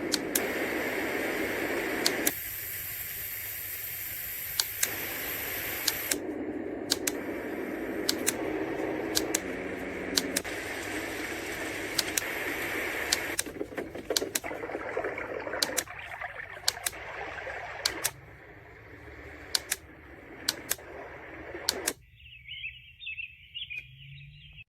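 White noise sound machine playing its soothing noise sounds, with the sound switching abruptly to a different noise texture every few seconds. Sharp clicks run throughout. Near the end only a thin, high-pitched sound remains.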